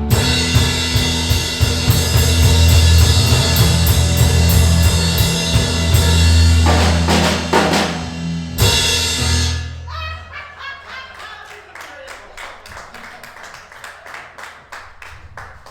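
Live band music with a drum kit playing loudly, dropping off about two-thirds of the way through to a quieter passage of evenly spaced drum or tapping hits that fades out.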